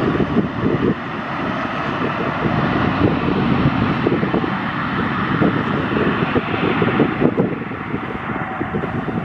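Airbus A220-300 jet engines at takeoff power, a steady rumble with crackle as the airliner climbs away, with wind buffeting the microphone.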